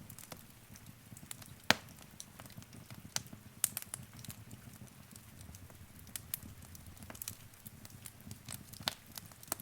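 Fire in a fireplace crackling, with irregular sharp pops, the loudest about two seconds in, over a low steady rumble.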